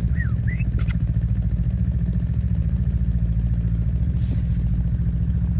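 A vehicle engine idling steadily with a fast, even pulse. Two short whistled chirps come near the start, followed by a brief click.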